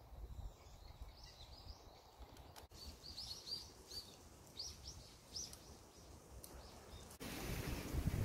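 Small birds chirping in short, repeated high notes over a low outdoor rumble of wind. About seven seconds in, a louder rush of wind noise comes in.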